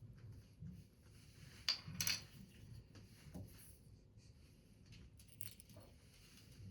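Light handwork sounds: faint clicks and rustles of paper and small tools being handled, with a couple of sharper clicks about two seconds in.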